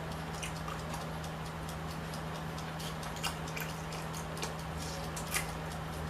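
A person eating: scattered small clicks and smacks from chewing and handling food, with a few sharper clicks about three, four and a half and five and a half seconds in. A steady low hum and hiss sit underneath.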